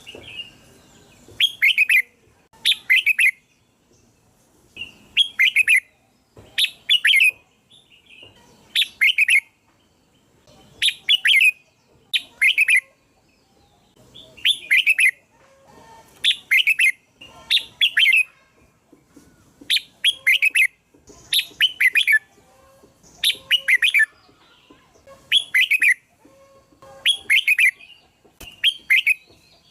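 Red-whiskered bulbul singing: short, bright chirping phrases repeated about every one and a half to two seconds.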